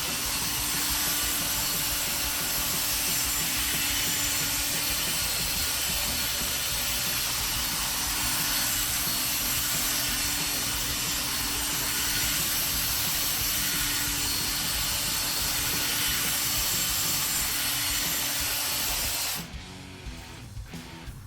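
Electric drill spinning a polishing pad loaded with compound against a plastic headlight lens, running steadily with a constant hum, then cutting off near the end.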